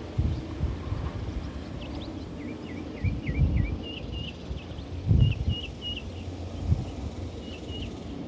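Small songbirds chirping: a quick run of short down-slurred notes about two and a half seconds in, then high notes repeated in pairs. Low thumps and rumbles on the microphone are the loudest sounds, strongest about three and five seconds in.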